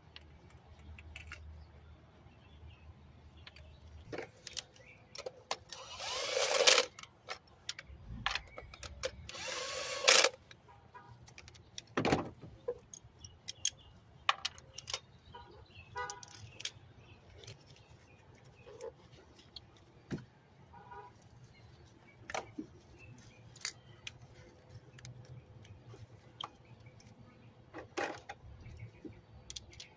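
Hand tools clicking, clinking and knocking on the engine while the ignition coil and spark plug are taken out, with a few short runs of ratchet-like ticking. Two louder rushing noises, about a second each, come about six and about nine seconds in.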